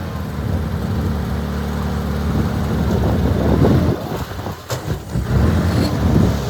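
Diesel engine of heavy earth-moving machinery running under load. It grows louder and rougher toward the middle, drops briefly, then picks up again near the end.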